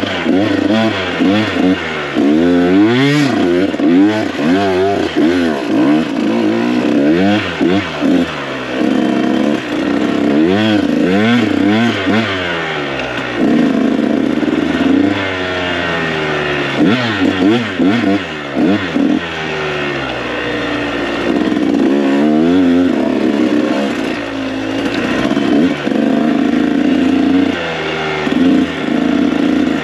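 Dirt bike engine revving up and down over and over as the throttle is worked, with a few longer stretches held at steadier revs.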